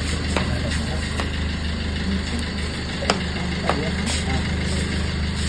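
A vehicle engine idling steadily, with a couple of light clicks about three seconds in.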